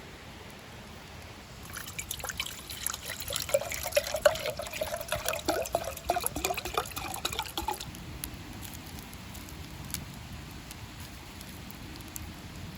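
Water being poured into a vessel for about six seconds, splashing, with a tone that rises slowly as the vessel fills; it stops about eight seconds in.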